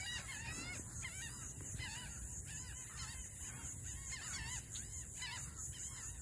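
Birds calling: a steady run of short, arched notes, several a second, over a faint low rumble.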